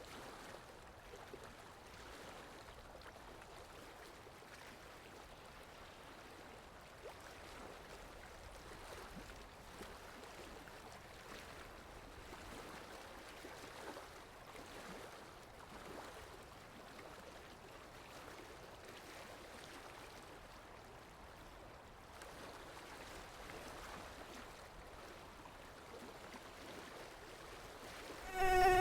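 Faint, steady background hiss, then near the end a mosquito's wing whine starts suddenly: a loud, steady buzzing hum close to the microphone.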